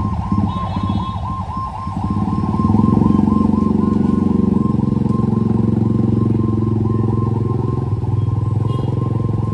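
A motor vehicle's engine running close by, with a siren warbling rapidly, several cycles a second, underneath.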